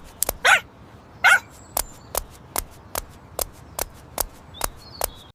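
A dog barks twice, two short yaps falling in pitch, in the first second and a half, over an even run of sharp clicks at about two and a half a second.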